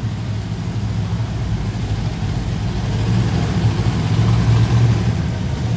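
Monster truck engine running with a deep, steady hum that grows louder in the second half.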